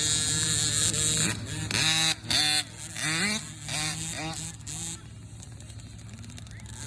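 Dirt bike engines revving, rising and dropping in pitch over and over, then fainter in the last couple of seconds.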